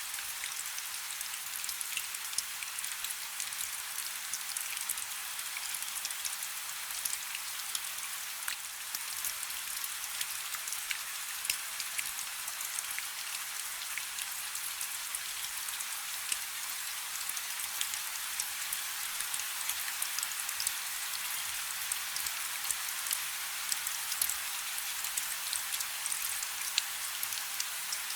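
Steady light rain: a soft hiss with many small drops ticking close by.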